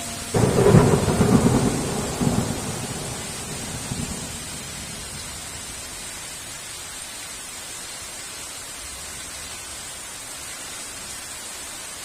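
A thunderclap breaks out suddenly about half a second in, crackling and then rumbling as it dies away over about four seconds, over steady heavy rain.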